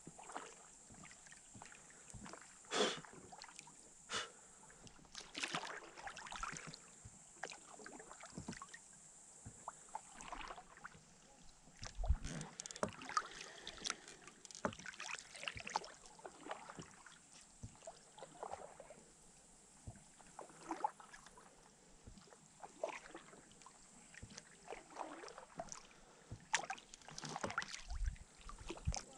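Irregular water splashes, drips and knocks of handling aboard a small rowboat, as when a fishing net is worked in over the side, over a steady faint high hiss.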